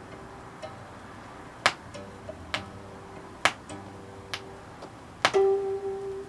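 Gayageum playing a slow, sparse passage: a few single plucked notes ring and fade, the strongest about five seconds in. A sharp tap sounds evenly about every two seconds.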